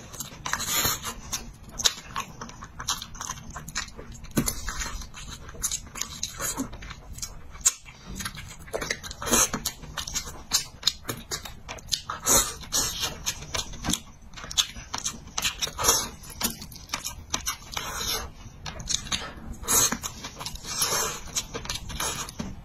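Close-miked eating sounds of a man chewing spicy braised fish: many irregular short mouth clicks and lip smacks.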